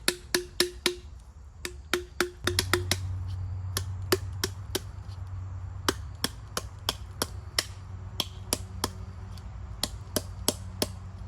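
A blade chopping a bamboo cup down to size: quick, even strikes, about three or four a second, with a brief pause about a second in, the early strikes ringing on the hollow bamboo. A low steady hum comes in about two seconds in.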